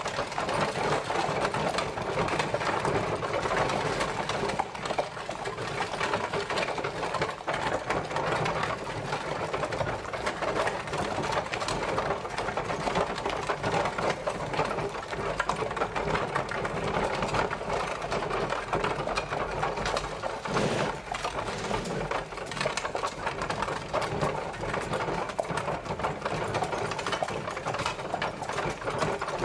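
Horse-drawn carriage travelling, its wheels and body giving a steady, fast rattling clatter without a break.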